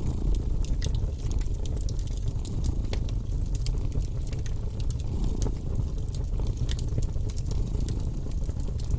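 Fireplace fire crackling, with frequent sharp pops, over a steady deep purr from a cat.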